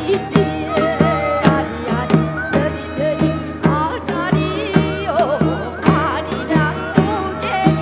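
Korean traditional folk-song accompaniment: a drum keeps an even beat of about two strokes a second while melodic instruments play wavering, shaking lines with deep vibrato.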